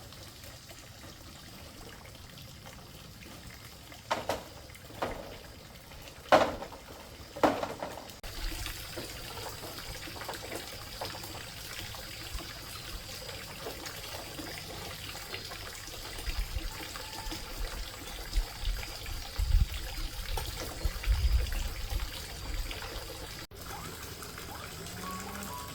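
Water trickling and splashing, with four sharp knocks a few seconds in and a few dull low thumps later on.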